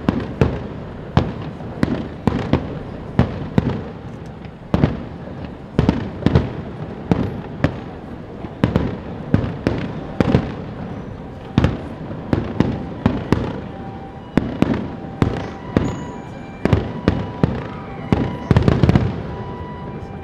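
Aerial firework shells bursting one after another, about one or two bangs a second, each bang trailing off in an echo. A dense cluster of bursts comes near the end.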